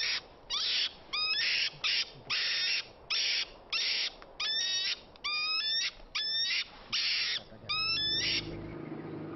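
A European mink hissing and screeching in alternation, about two calls a second, the squeals rising in pitch: the angry protest of a freshly trapped mink being handled. The calls stop near the end, and a low steady hum begins.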